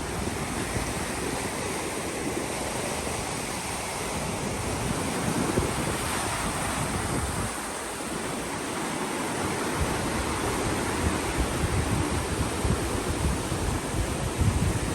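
Steady rush of ocean surf, with wind buffeting the microphone in gusts.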